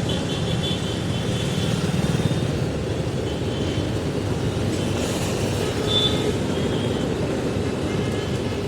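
Truck running on the road: steady engine and road noise.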